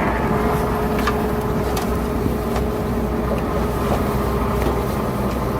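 Diesel engine of heavy earthmoving equipment running steadily, with a faint steady whine and a few light clicks.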